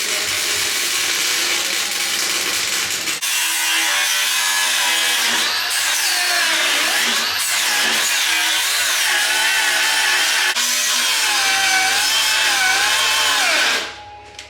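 A handheld power tool running under load on the truck's bodywork, its whine dipping and recovering as it is pressed into the work. The sound changes abruptly about 3 s and 10.5 s in, then drops away sharply near the end.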